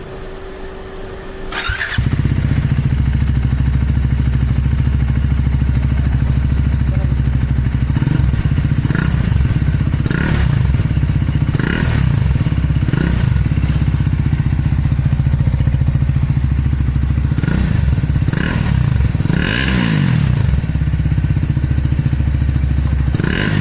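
Triumph Speed 400's single-cylinder engine running with its muffler removed: it is started about two seconds in, catches and idles with an unmuffled exhaust note, then is revved in a series of short blips. The sound is raw, with grunt.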